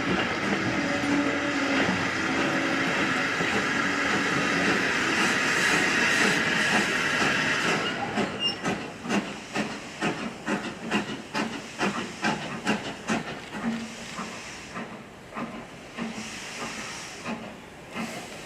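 Steam locomotive hissing steam, then working away with rhythmic exhaust chuffs about two to three a second that fade as it draws away.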